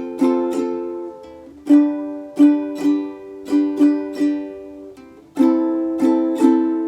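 Ukulele strummed in a down, down, up, down, up pattern, each stroke ringing on. The chord changes twice, about a second and a half in and again after about five seconds.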